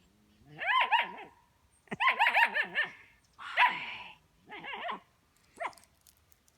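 German Shepherd puppy barking at a ball she is afraid of, in about five bursts of high-pitched yips in quick succession, the last one a single short yip.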